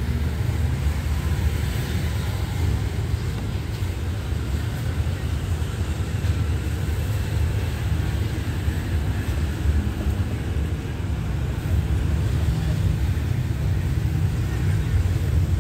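Steady low rumble of a passenger train rolling slowly along a station platform, heard from an open carriage door.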